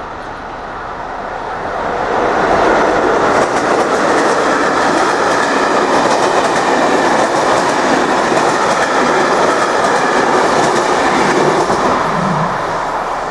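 A train passing close by, its wheels clattering over the rail joints. The sound builds over the first two seconds, holds steady, and eases off near the end.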